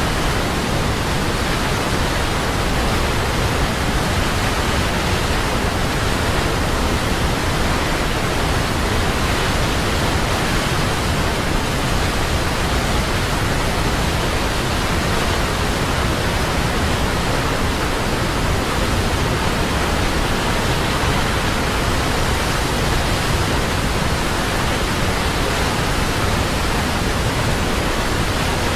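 Large waterfall: a steady, unbroken rush of falling water, full from deep rumble to high hiss.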